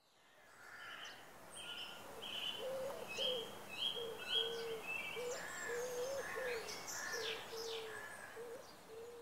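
Wild birds calling: a low, wavering call repeated over and over, with higher chirps above it, over a faint outdoor background that fades in at the start.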